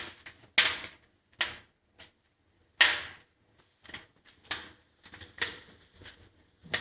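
Wood fire crackling in the open firebox of a Kratki Amelia fireplace insert during its first firing, with about ten sharp, irregular snaps and pops, each dying away quickly.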